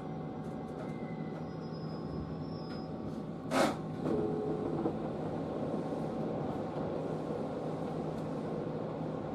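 811 series electric train standing at a station platform with a steady hum from the stopped train. A short, sharp hiss comes about three and a half seconds in.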